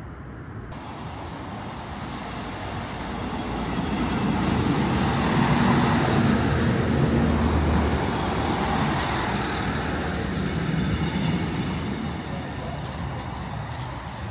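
Diesel train rising to its loudest in the middle and then slowly fading, with a brief high squeal about nine seconds in.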